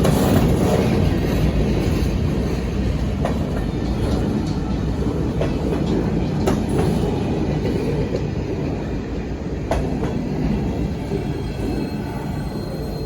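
A train rolling past, its wheels making a steady rumble with a few sharp clicks over the rail joints, slowly getting quieter near the end.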